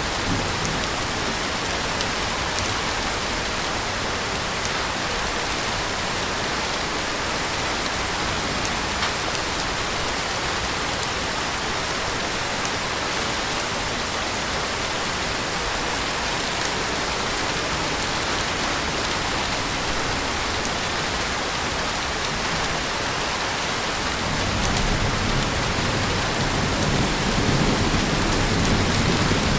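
Heavy rain pouring steadily. About 24 seconds in, a low rumble of thunder starts to build beneath it and grows louder toward the end.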